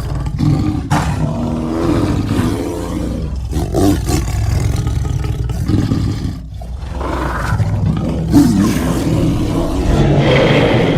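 Monster creature roars made from layered big-cat and other animal recordings: a run of long, loud roars one after another, with brief pauses between them.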